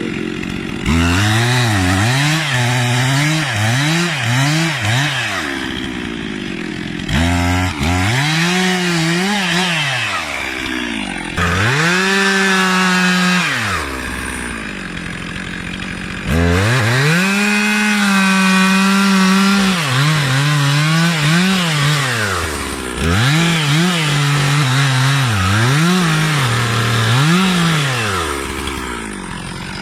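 Two-stroke chainsaw cutting through a tree trunk, its engine repeatedly revving up high, holding while the chain cuts, then dropping back toward idle.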